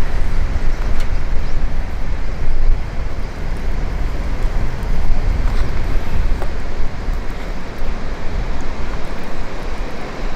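Wind buffeting the microphone: a loud, steady, uneven low rumble, with a few faint clicks.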